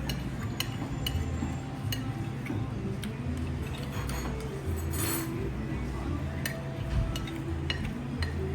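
Cutlery clinking against bowls and dishes in sharp, scattered ticks over background music with a steady low beat, and a short noisy burst about halfway through.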